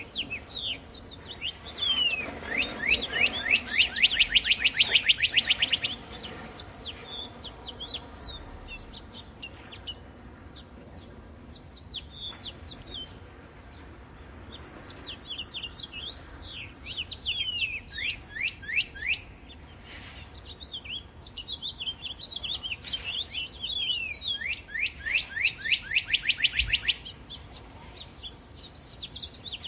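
Songbirds singing: scattered high chirps, with two loud, fast trills of quickly repeated sweeping notes, one about two seconds in and one near the end.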